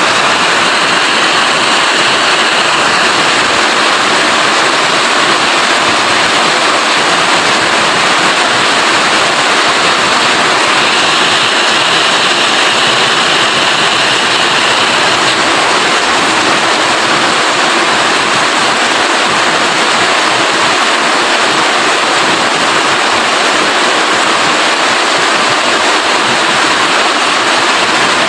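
Heavy, steady rain: a dense, even hiss of falling water that holds the same level throughout.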